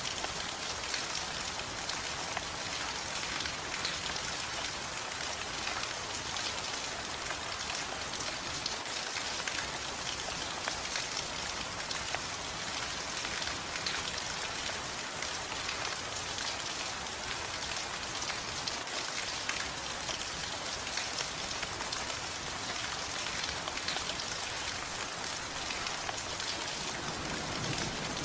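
Steady rain falling, an even hiss of many drops spattering on a surface.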